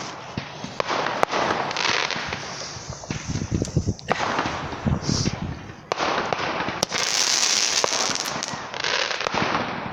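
Ground fireworks going off close by: a continuous hiss broken by many sharp bangs and crackles, with a brighter, higher hiss about seven seconds in.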